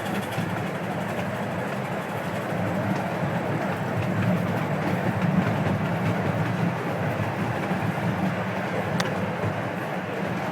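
A 12-inch gauge steam train running along the track: a steady rolling rumble, with one sharp click near the end.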